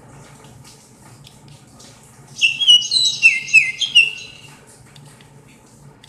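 A burst of loud, high chirps lasting about two seconds, starting near the middle, with several falling notes overlapping, like a bird calling. A faint steady low hum runs underneath.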